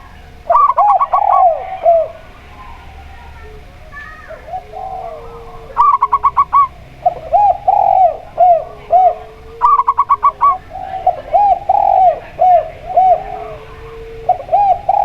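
Zebra doves and spotted doves cooing together. Four short bursts of rapid staccato notes come amid a run of lower, rounded, repeated coos.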